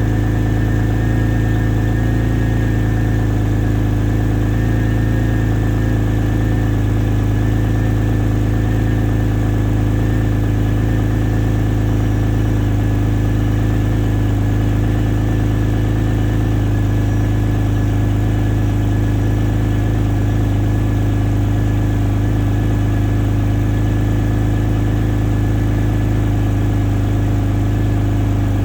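Porsche 911 Turbo's twin-turbo flat-six with the X50 power kit idling steadily during its cold start cycle, a few days after last being run. The fast idle eases down slightly in pitch as it warms.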